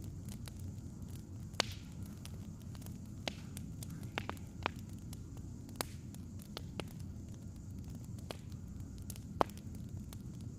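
Wood fire crackling: irregular sharp pops and snaps from burning firewood over a steady low rumble, with the two loudest pops about a second and a half in and near the end.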